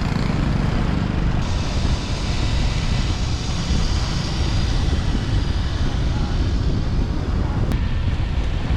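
Motorbike riding in city traffic: a steady rumble of wind on the microphone over engine and road noise.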